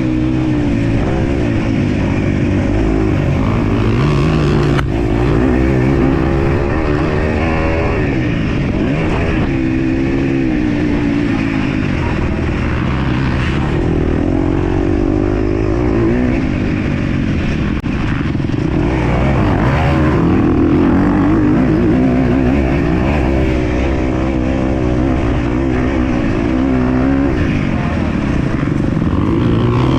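MX2 motocross bike engine under hard racing use, revving up and dropping back again and again as the throttle is worked and gears change, its pitch climbing and falling every second or two.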